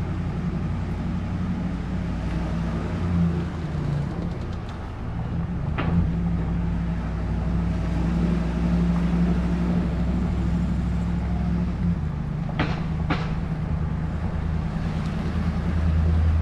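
Pickup truck's engine running steadily while driving slowly, with slight rises and falls in throttle. The cold-start exhaust-manifold leak tick has faded as the manifold warms up and reseals against its gasket. Two short sharp clicks come close together near the end.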